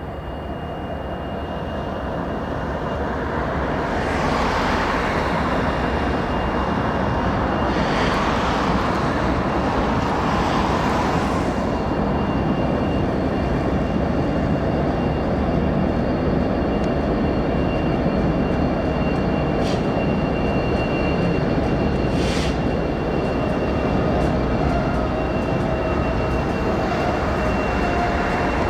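Diesel freight locomotives and train running at a distance, a steady low noise that builds over the first few seconds, mixed with a few swells of hiss from traffic passing on the road bridge.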